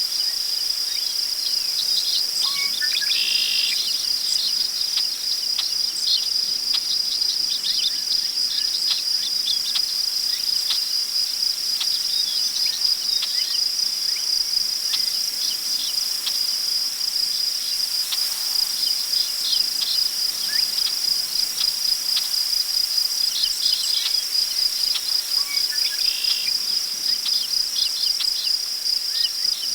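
Field crickets trilling steadily in a high, continuous chorus, with scattered short bird chirps, a couple standing out about three seconds in and near the end.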